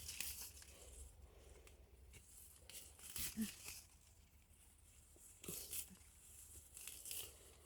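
Faint, scattered rustling and crackling of leaves and plant stems being handled, a few short rustles spread over the quiet.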